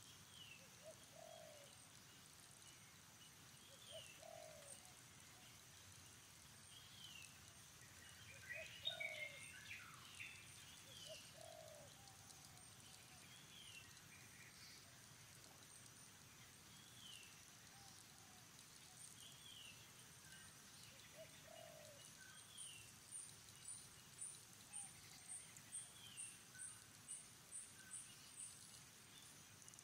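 Faint bird calls: a short falling call repeats every few seconds over lower calls. A brief flurry of chirps comes about nine seconds in, and a quick run of high, thin notes, about two a second, comes near the end.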